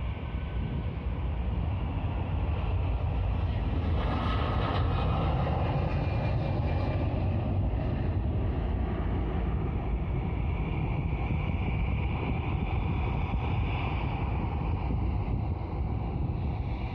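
Jet engines of an Airbus A330 at take-off power: a steady rumble with a faint whine on top, swelling about four seconds in.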